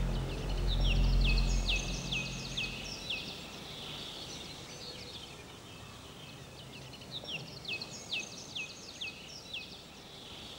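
A bird calling in two runs of sharp, quickly falling chirps, about three a second, over a faint steady hiss. The music's low bass fades out in the first three seconds.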